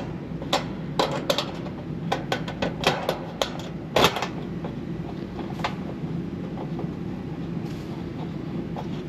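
Work noise: irregular sharp knocks and clicks over a steady low mechanical hum, the loudest knock about four seconds in.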